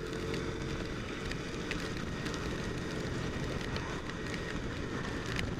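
Motorcycle riding at speed in the rain: a steady rush of wind over the microphone, with the bike's engine running underneath.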